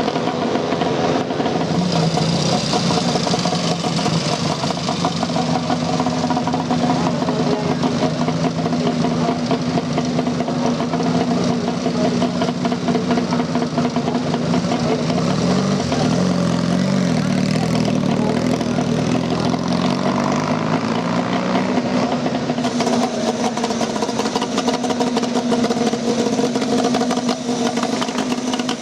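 Motorcycle engine running at idle, its note wavering slightly now and then.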